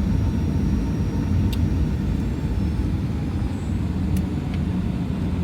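Airliner cabin noise as the plane taxis: a steady low rumble from the engines and the rolling aircraft, with two faint clicks.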